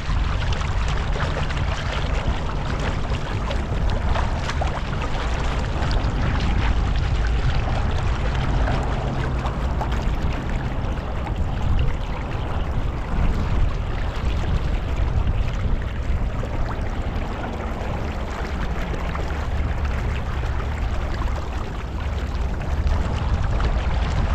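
Steady rush of wind and water from a boat moving across the lake, with a heavy low rumble underneath and no distinct engine tone.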